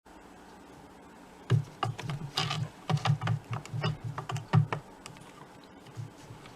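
Cat clambering on a cat tower: a quick run of light thumps and sharp claw clicks, starting about a second and a half in and dying away about three seconds later.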